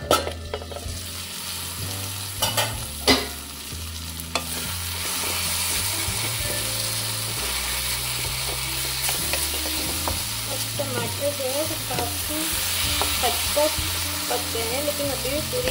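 Onion, tomato and cashew masala sizzling in a kadhai while a wooden spatula stirs and scrapes it. A few sharp knocks come in the first few seconds, and the sizzle grows louder about five seconds in.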